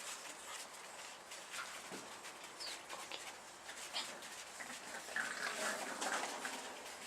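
A dog snoring: irregular short, noisy snoring breaths, with a longer one about five seconds in.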